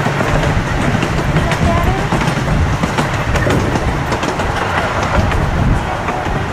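Amusement park train riding along its track, the wheels clicking and clacking steadily over the rails, with voices underneath.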